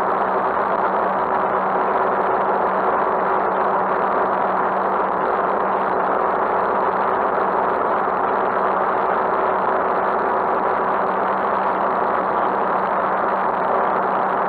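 Motorcycle engine running at a steady, unchanging pitch under a steady rushing noise, picked up by a camera mounted on the handlebars.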